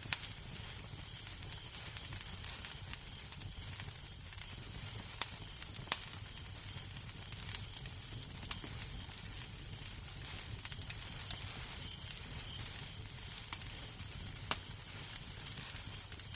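Wood fire crackling in a fireplace: a steady hiss and low rumble with sharp pops and snaps every second or so.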